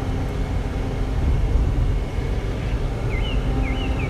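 Steady road and engine rumble of a car driving, heard inside the cabin. Near the end a short high chirp repeats about twice a second.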